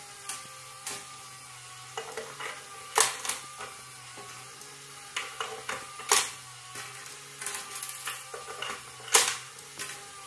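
Kisses smacking on a pet parrot's belly: irregular sharp smacks, the loudest about 3, 6 and 9 seconds in, over a faint steady low hum.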